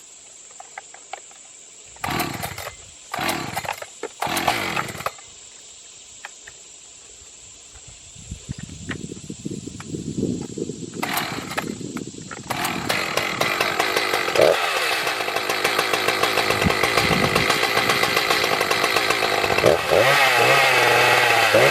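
Echo CS-590 Timberwolf two-stroke chainsaw being pull-started: several quick yanks of the starter cord, then the engine catches about 12 seconds in and runs steadily, with the throttle blipped up and down near the end. It starts and runs on a newly fitted carburetor without any tuning.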